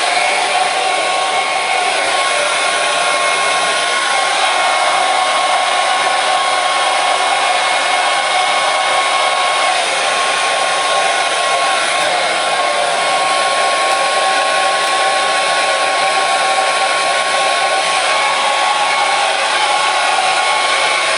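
Hair dryer running steadily: an even, unbroken blowing rush with a thin steady whine over it.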